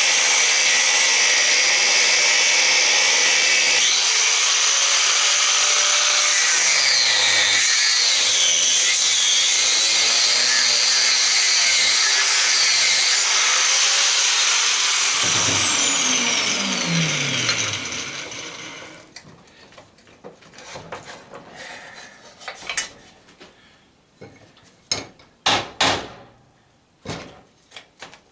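A power cutting tool cutting into the sander's metal to get at a screw, running steadily and loudly, then spinning down with a falling pitch about 15 seconds in. After that come scattered knocks and clicks of metal parts being handled.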